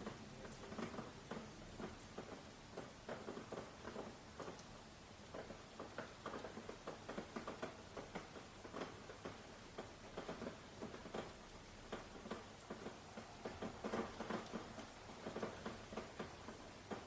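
Light rain: scattered raindrops tapping irregularly, several a second, over a faint steady hiss.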